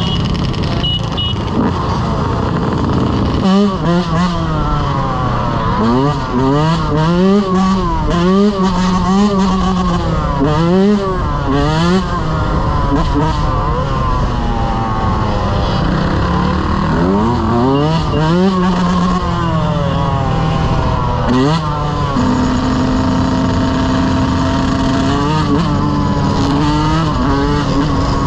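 Motorcycle engine revving over and over, its pitch climbing and dropping every second or two, then running at a steadier speed for the last several seconds.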